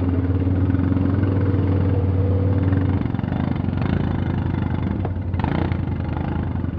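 Off-road vehicle engine running at a steady pitch, then easing off and running rougher about three seconds in, with a short burst of noise near the end.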